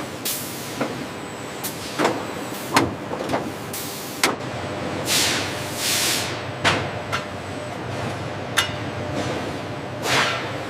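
Factory machinery running with a steady hum, broken by scattered sharp metallic knocks and clanks and by several bursts of hissing air, like pneumatic valves releasing.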